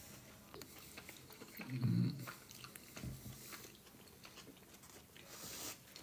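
Close-up chewing of soft gnocchi with the mouth closed: faint wet mouth clicks. About two seconds in there is a short, low closed-mouth hum, and a paper napkin rustles near the end.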